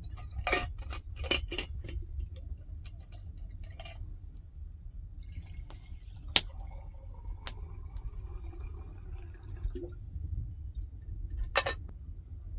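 Sharp clinks and knocks of cookware being handled, several close together near the start, single ones near the middle and near the end, over a steady low rumble.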